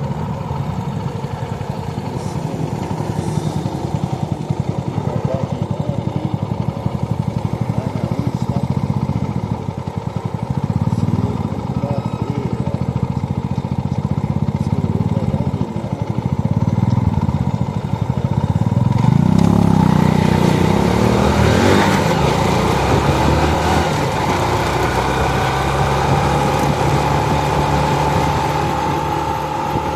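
Motorcycle engine running under way, its revs rising and falling as it pulls and shifts. From about two-thirds of the way in, the sound gets louder and a rushing noise joins it, while the engine pitch climbs slowly.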